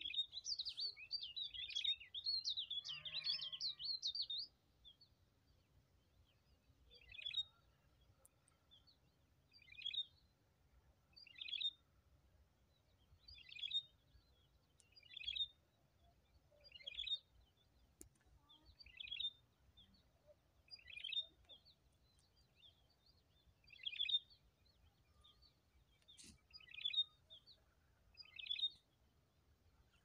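A small bird chirping in the background: a quick run of chirps for the first four seconds or so, then a single short call repeated about every one and a half to two seconds.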